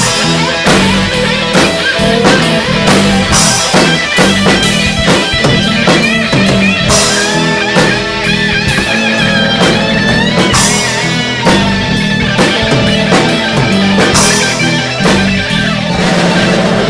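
Live rock band playing an instrumental stretch of a blues song, electric guitar lead over bass and drum kit.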